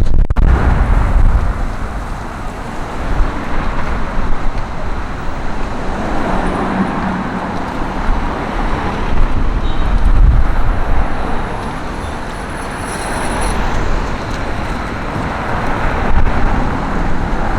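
City street traffic: cars and other vehicles driving past with a steady rumble of engines and tyres that swells and eases as they go by.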